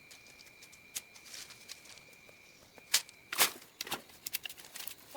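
A few sharp knocks and clicks, the loudest about three and a half seconds in, over a faint steady high whine that stops about halfway through.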